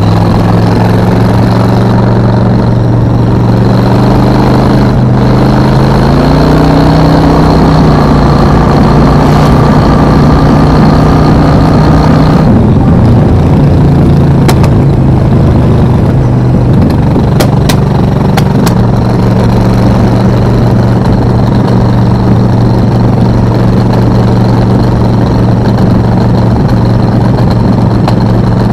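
Suzuki VS 1400 Intruder's V-twin engine running under way; its pitch climbs as it accelerates about six to eight seconds in, then holds steady.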